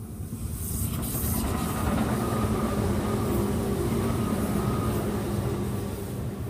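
A train passing close by: a rumbling swell with a steady whine in it that builds over about two seconds, holds, and fades near the end.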